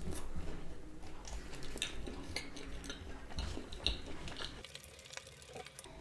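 Close-miked chewing of a mouthful of food, with soft wet clicks and smacks, growing quieter in the last second or so.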